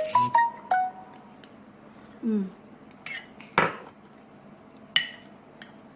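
Cutlery clinking against dishes a few times at a meal, with short ringing after each clink: ringing tones shortly after the start, then separate sharp clinks just past the middle and near the end.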